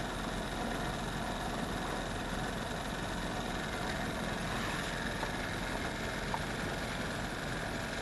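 Small gas outboard motor on a jon boat running steadily at low speed, shortly after a cold start that needed the choke held on longer.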